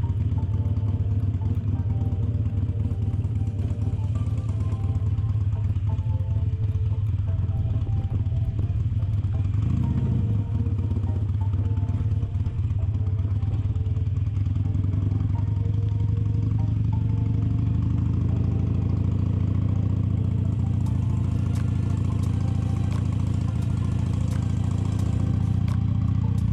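Motorcycle engine running under way, its pitch briefly rising and falling about ten seconds in, with background music over it.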